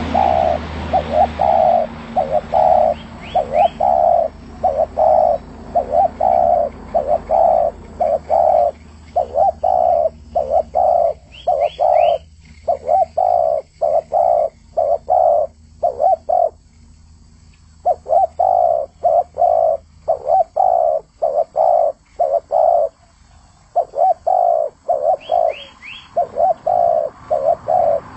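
Spotted dove (tekukur) cooing over and over in quick, evenly spaced low notes, with brief pauses about two-thirds of the way through. Faint, quick high chirps from another small bird come in three times.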